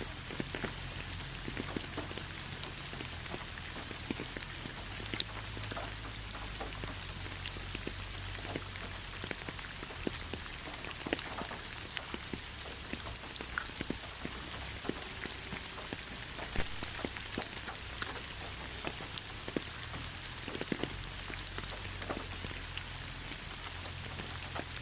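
Steady rainfall: an even hiss with many separate drops pattering close by, over a low rumble.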